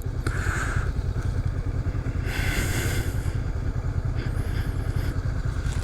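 Honda CB500X parallel-twin engine running at a steady pace while riding, a low even rumble mixed with wind buffeting on the microphone. A short rush of hiss comes about two and a half seconds in.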